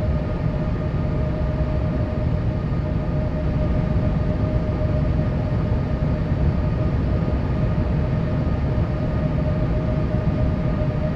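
Steady engine and airflow noise heard inside a Boeing 787's passenger cabin: a deep, even rumble with a constant whine over it.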